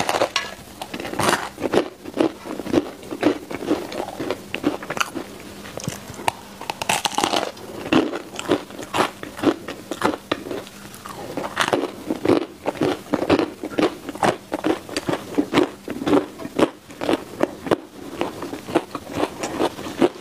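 Close-miked biting and chewing of a baked mochi bread ball with a crisp crust and a soft, chewy inside: a steady run of crunchy chewing sounds.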